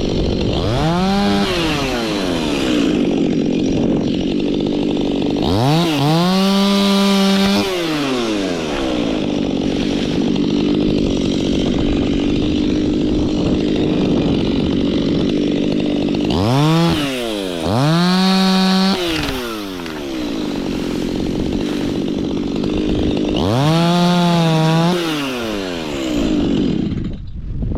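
Two-stroke chainsaw running and cutting through kapok wood, revved up to full throttle five times, each time holding a steady high pitch through the cut before dropping back toward idle.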